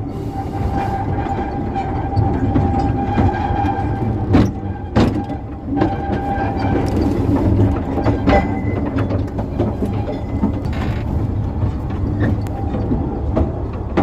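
Small narrow-gauge quarry train running along the track, heard from on board: a steady low rumble with scattered sharp knocks and a steady whine through roughly the first half.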